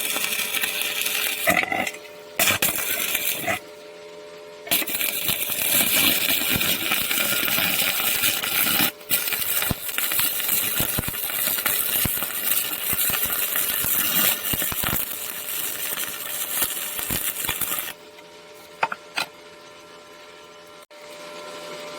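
Welding arc from a Sakura 315A welding machine, crackling and hissing in two runs: a short one of about three seconds, then a longer one of about thirteen seconds that stops abruptly. A low steady hum and a few clicks come between and after the runs.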